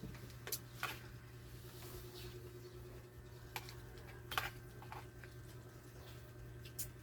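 A few scattered sharp clicks and taps over a steady low hum.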